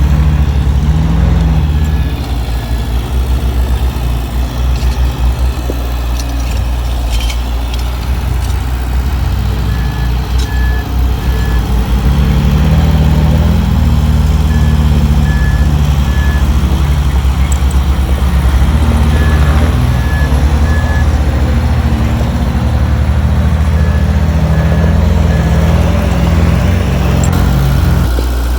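Komatsu bulldozer's diesel engine running under load, its note getting heavier about midway. A reversing alarm beeps in short sets of about three, repeating every few seconds.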